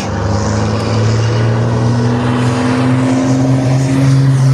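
Diesel engine of a racing truck running under load, a loud low drone whose pitch climbs slowly.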